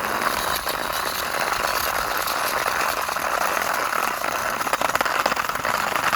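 Toy airplane pushed by hand, its small plastic wheels rolling along a surface with a steady whirring rattle, with quicker clicks and rattles in the second half.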